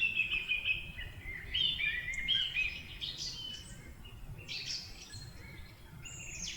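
Small birds chirping and singing, many short, high notes in quick overlapping phrases over faint outdoor background noise.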